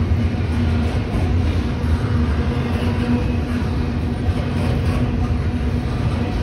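Freight train of intermodal and auto-rack cars rolling past, its steel wheels on the rails making a steady rumble with a steady hum running through it.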